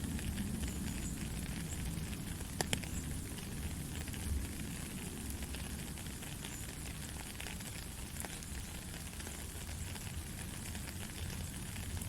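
Steady rain falling, a constant hiss with many small pattering ticks and an occasional sharper drip or tap, one near the three-second mark.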